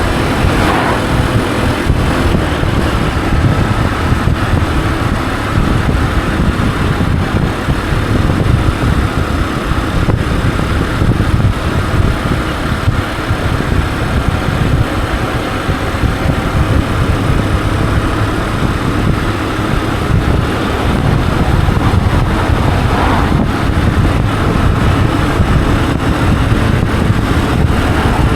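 Honda CG125's air-cooled single-cylinder four-stroke engine running steadily as the motorcycle rides along.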